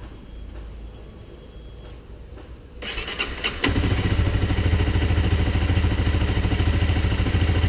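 Honda CBR250R's single-cylinder engine cranked on the electric starter; it catches a little under four seconds in and settles into a steady idle.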